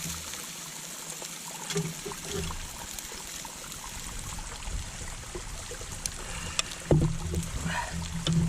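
Bacon and hash browns frying in oil in a pan over a campfire, a steady sizzling hiss, with a few knocks near the end.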